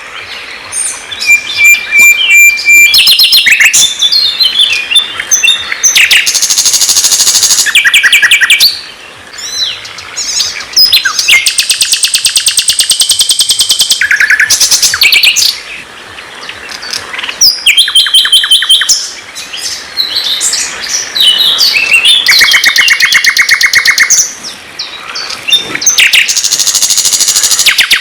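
Loud songbird song used as a training recording for white-rumped shamas. Long phrases of fast, evenly repeated trill notes alternate with short varied chirps and whistles, with brief gaps between phrases.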